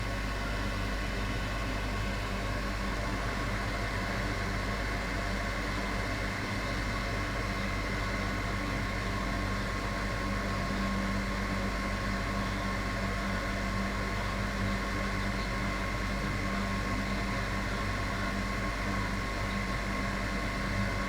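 Hot-air rework station blowing steadily, a whirring hiss with a few steady tones, as it heats a MacBook logic board to lift two shorted capacitors off the power line.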